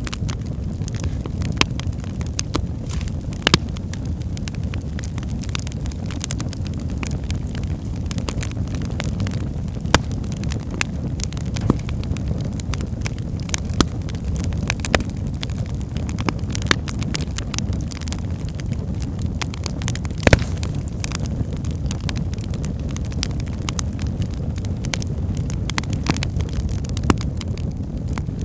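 Wood fire burning in a fireplace: a steady low rumble of flames with frequent irregular crackles and pops of the burning logs, a few sharper pops standing out.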